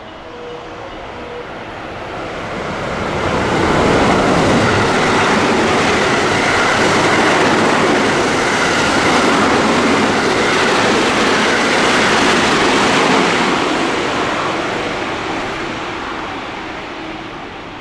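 Train running through the station without stopping: the rush of wheels on the rails builds over a few seconds, holds loud for about nine seconds as the cars go by, then fades away.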